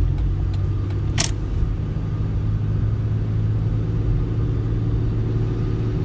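Car engine running steadily with a low hum, and one sharp click about a second in.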